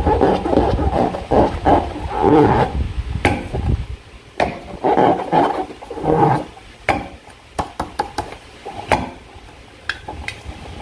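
Slime being squeezed and worked by hand: wet, crackling squelches in two long stretches, separated by quieter moments with scattered sharp clicking pops.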